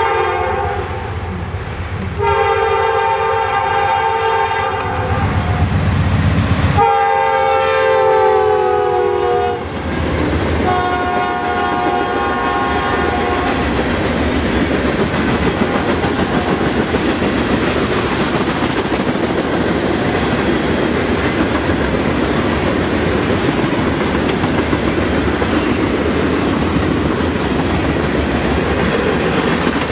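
A CSX freight locomotive's horn sounds four times: a short blast, then three long ones, the third dropping slightly in pitch and the fourth fainter as the locomotive goes by. After that the freight cars roll past with a steady clickety-clack of wheels over rail joints.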